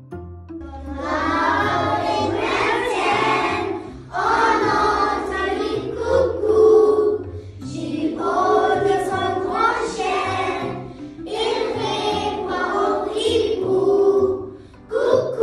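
A group of children singing a French nursery rhyme together, in phrases about three seconds long with short breaks between, over a low musical accompaniment.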